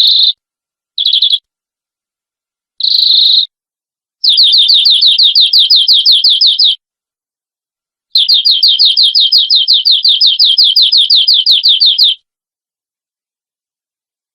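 Domestic canary singing: three short high chirping phrases, then two long rapid trills of repeated down-slurred notes at about eight a second, the second trill about four seconds long.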